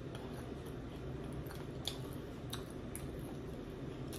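Close-miked chewing of a waffle fry, with a few sharp mouth clicks in the middle.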